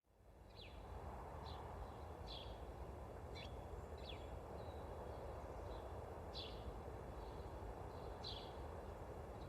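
Small birds chirping over a steady background hiss: short, quick downward-sliding chirps about once a second. The ambience fades in from silence right at the start.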